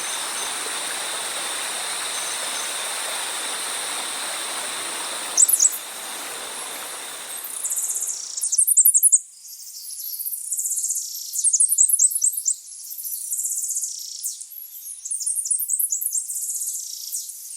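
Night insects, crickets among them, keep up a steady high trill over an even hiss for the first five or so seconds. Then songbirds take over, singing in quick, repeated high chirps and trills for the rest.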